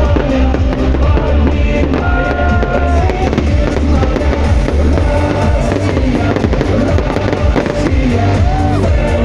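Loud music with a heavy bass beat, with the bangs and crackle of a fireworks salute over it; the bangs come more often near the end.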